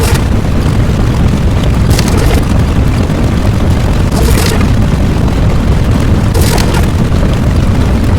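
Loud, continuous deep rumble, with a brief hissing surge about every two seconds.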